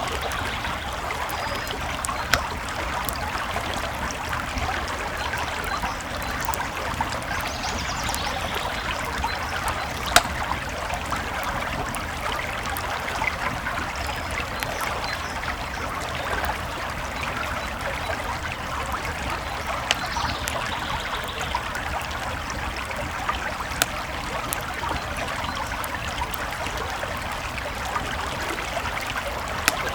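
A creek flowing steadily with a campfire crackling over it; now and then a sharp pop stands out, the loudest about ten seconds in.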